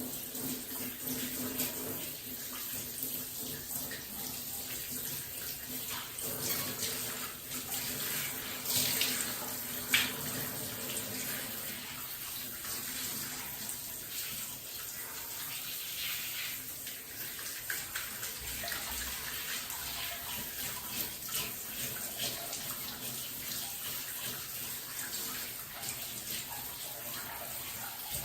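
Running water from a tap splashing steadily while a cat is bathed, with uneven splashes and a single sharp knock about ten seconds in.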